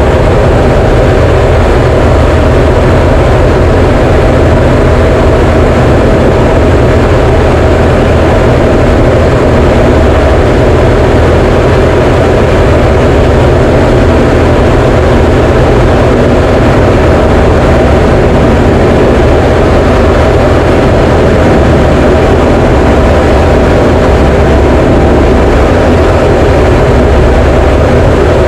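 Diamond DA20 light aircraft's piston engine and propeller running steadily: a loud, constant drone that does not change in pitch or level.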